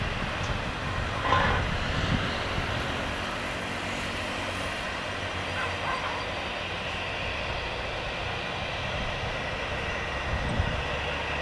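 Airbus A320 jet engines running steadily, a constant rumble with a whine on top, with a brief louder swell about a second in.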